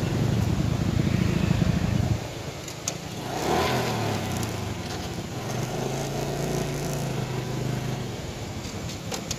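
Small motorcycle engine running as the bike rolls slowly, loudest for about the first two seconds, then easing to a steady low note.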